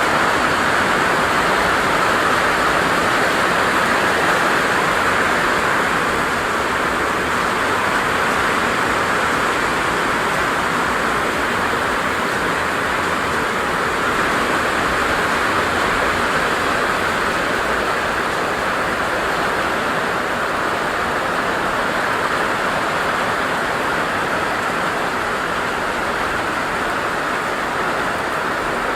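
Loud, steady rushing of water, holding the same level throughout.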